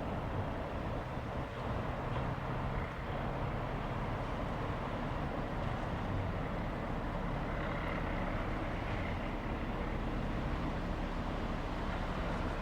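Train running with a steady low rumble that does not change.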